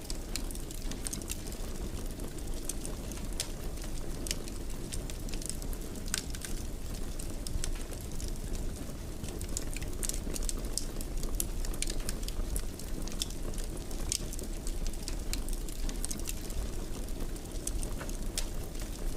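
Wood fire burning in a fireplace: a steady low rumble of the flames with frequent small, irregular crackles and pops of the burning wood.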